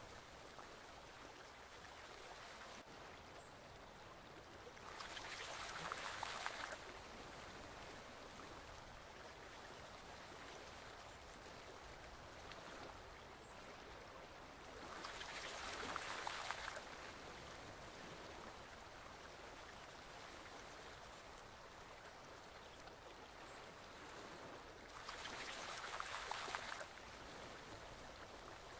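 Forest stream water flowing steadily, swelling louder for a couple of seconds about every ten seconds, three times.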